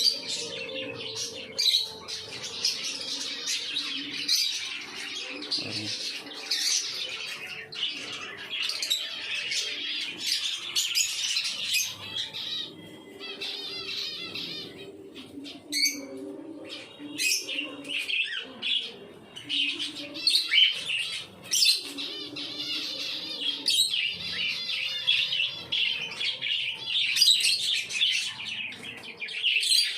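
A flock of lovebirds in a colony breeding cage chattering and chirping continuously, many high-pitched calls overlapping, with louder squawks here and there.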